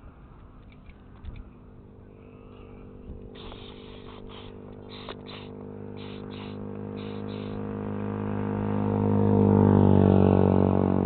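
A motor vehicle's engine drone growing steadily louder, at its loudest near the end, as if approaching and passing. In the middle come about seven short, high chirps.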